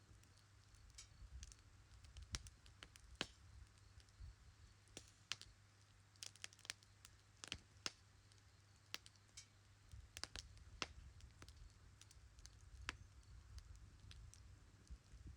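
Wood fire crackling: sharp, irregular pops and snaps of burning wood, a few loud ones among many faint ticks, over a faint low rumble.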